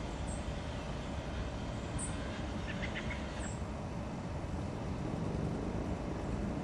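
Steady low rumble of distant traffic, with a faint steady hum and a few short high chirps.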